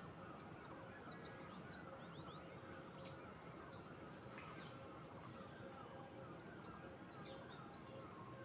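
A songbird singing in short, high, warbling phrases, loudest from about three to four seconds in, with fainter phrases before and after.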